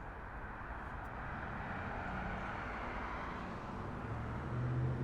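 Rushing noise of a passing vehicle, swelling gradually toward the middle and easing a little, with a low hum coming in near the end.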